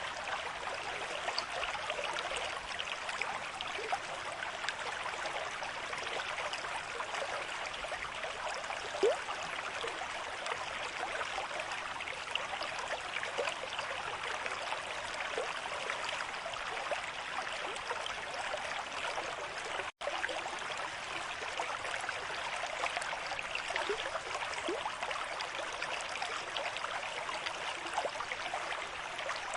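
River stream flowing steadily at a moderate rate, a constant rush and babble of water. The sound cuts out for an instant about twenty seconds in.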